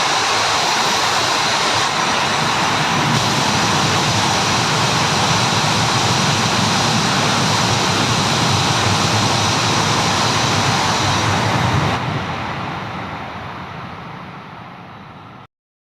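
Tohoku Shinkansen train passing through a station at high speed: a loud, even rushing roar of wind and running gear that dies away from about twelve seconds in, then cuts off abruptly near the end.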